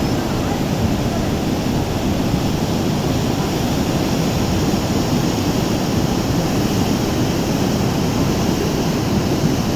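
The Beas River in flood: a loud, steady rush of fast floodwater.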